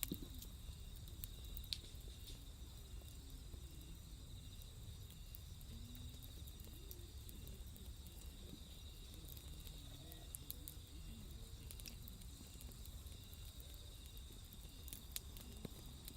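Night insects, crickets, trilling steadily and high, with a few sharp crackles from a small wood fire burning in a grill.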